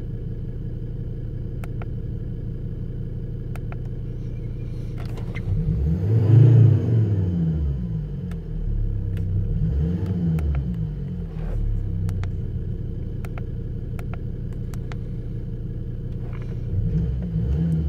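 2004 Volvo S60 D5's 2.4-litre five-cylinder turbodiesel idling, then revved up and let fall back several times: a big blip about six seconds in, a smaller one around ten seconds, and another near the end.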